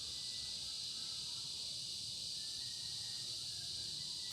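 Steady high-pitched background hiss with no other activity: no tool or handling sounds.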